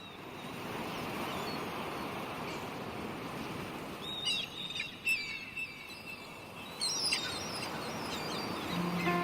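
Birds chirping over a steady outdoor noise that fades in at the start, with a cluster of calls about four seconds in and another about seven seconds in.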